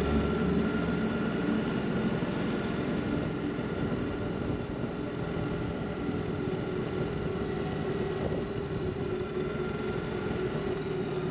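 Ducati Multistrada 950's L-twin engine running at low, steady revs on a slow, cautious descent, over a steady rush of wind and road noise.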